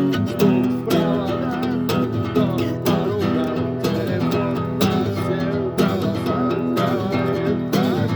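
Acoustic guitar being strummed in a steady rhythm, playing a song.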